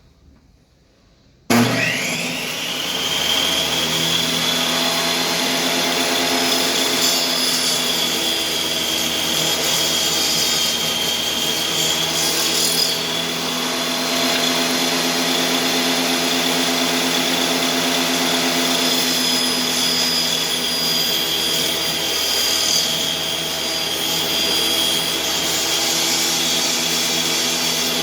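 Electric table saw starting up with a quick rising whine about a second and a half in, then running steadily at full speed while rabbets are cut in boards.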